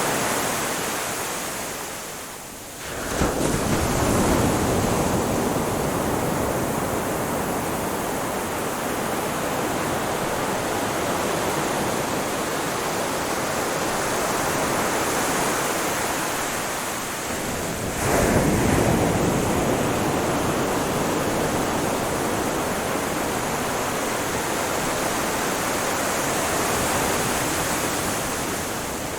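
Ocean waves breaking on a shore: one wave crashes about three seconds in and another about eighteen seconds in, each followed by a long, slowly fading wash of surf.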